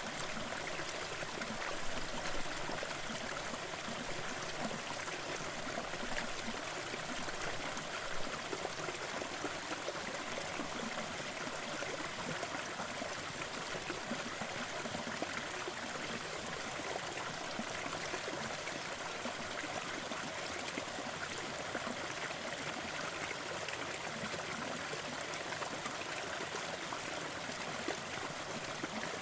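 Waterfall: water falling and splashing in a steady, even rush, with no change throughout.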